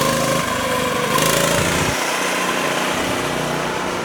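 Small pull-start engine of a mini bike running steadily.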